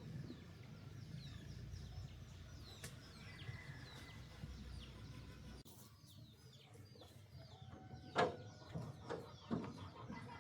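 Birds chirping repeatedly in short, high, falling notes over a low rumble that stops about halfway through. A few sharp knocks come near the end, the first the loudest.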